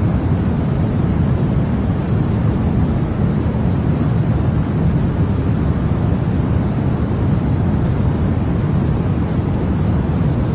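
Continuous, even baby-sleep white noise: a steady deep hiss with most of its weight in the low end, closer to brown noise than to a bright white hiss, never changing.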